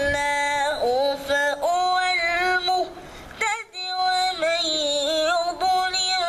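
A boy's voice reciting Quranic verses in melodic chanted style (tajwid), holding long notes with ornamented turns of pitch, with a short breath pause a little past halfway.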